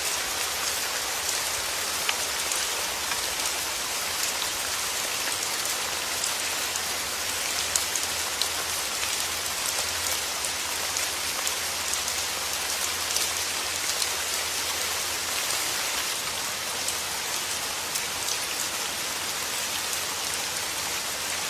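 Steady soft rain falling on a surface, a constant hiss with scattered individual drops ticking and pattering.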